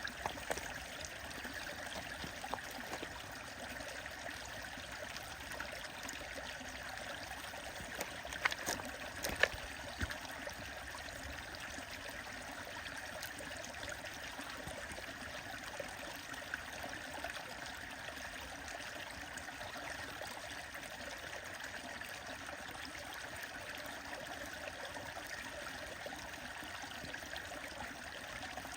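A stream running steadily, with a continuous babbling rush of water. A few sharp clicks stand out about eight to ten seconds in.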